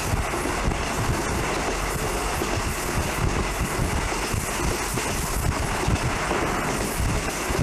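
Diesel passenger train running along the track: a steady rumble with irregular low knocks from the wheels and running gear.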